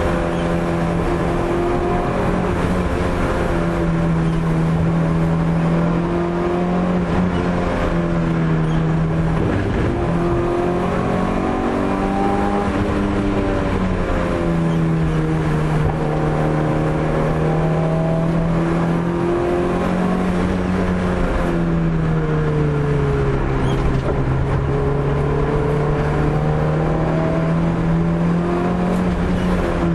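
Opel Corsa A GSi engine driven hard, its pitch climbing and dropping again and again as it is worked through the gears and lifted for corners, over a steady hiss of road noise.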